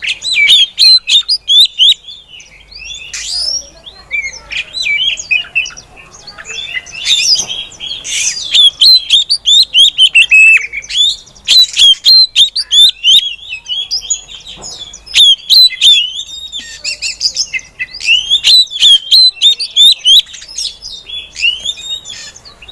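Female Oriental magpie-robin (kacer) calling: rapid runs of short, sharp chirps and whistled notes, coming in bursts with brief pauses.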